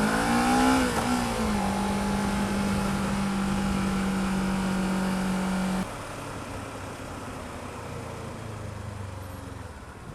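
Kawasaki ER-6f parallel-twin motorcycle engine accelerating, its pitch rising, then holding a steady note under load. About six seconds in it drops suddenly to a much quieter, rougher sound.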